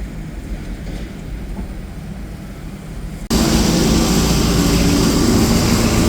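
A steady low rumble with a faint hum, as from a car ferry's engines, cuts abruptly about three seconds in to a much louder, steady vehicle running noise with an engine drone and road hiss, as heard riding inside a bus.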